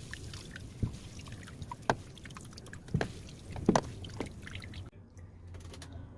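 Water dripping and splashing in a top-loading washing machine's tub during a sodium percarbonate cleaning soak, with a few sharp knocks or splashes about a second apart. It goes quieter about five seconds in.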